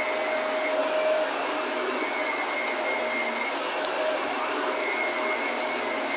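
Shark vacuum cleaner running with a steady motor whine, and faint scattered crackles of crunchy debris being sucked up.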